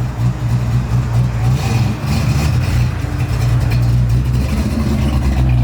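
Fox-body Ford Mustang engine running at low, fairly steady revs, with a deep, loud exhaust note.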